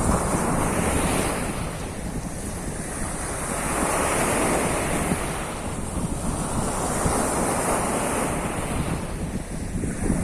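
Sea of Azov surf: waves breaking on the shore, swelling and falling back about every three seconds, with wind rumbling on the microphone.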